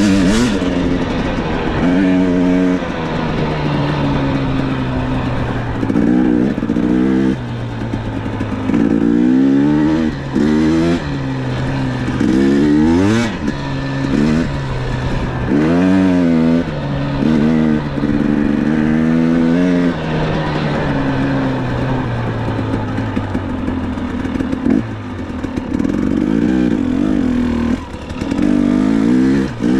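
Dirt bike engine being ridden, revving up and easing off again and again, its pitch rising and falling every second or two.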